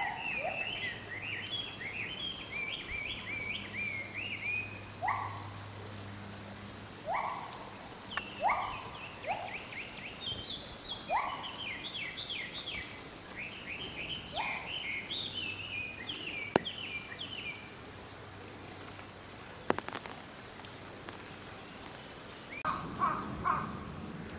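Wild birds calling: quick high chirps repeated in rapid phrases, mixed with lower rising calls that come every second or two in the first half. Two sharp clicks sound late on.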